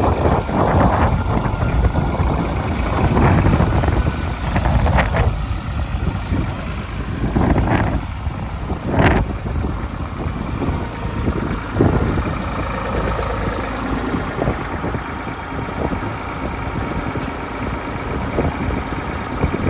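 Ford 4630 tractor's three-cylinder diesel engine running steadily at idle, with a few short knocks standing out over it.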